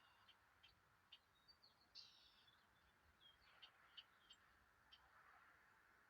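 Faint outdoor ambience of small birds chirping: scattered short chirps and ticks, several a second, over a steady low hiss.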